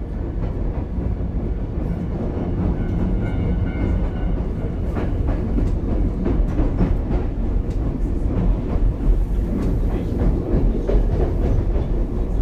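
Ichibata Electric Railway 7000-series car 7001 running, heard from inside the car: a steady low rumble, with wheel clicks over rail joints from about five seconds in.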